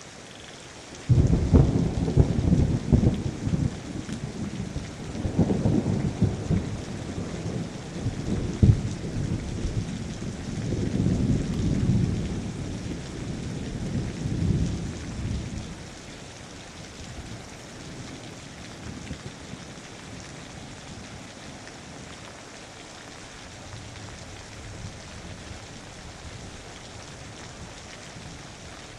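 Steady rain with a long roll of thunder: a sudden crack about a second in, then a low rumble that swells several times and dies away about halfway through, leaving the rain alone.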